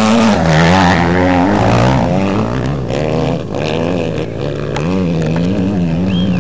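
Off-road rally motorcycle engines revving, the pitch rising and falling again and again.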